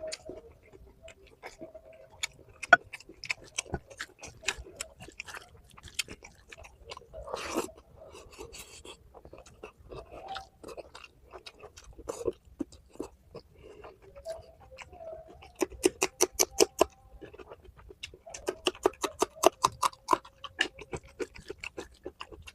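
A person chewing curry and rice close to the microphone: wet, smacking mouth clicks, with two fast runs of chewing near the end.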